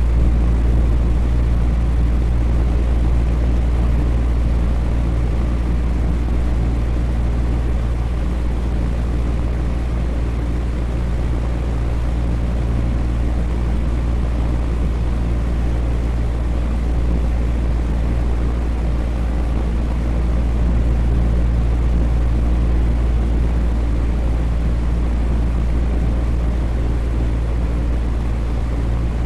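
Electric fan running steadily: a constant whir with a strong low hum and a few steady low tones under an even rush of air.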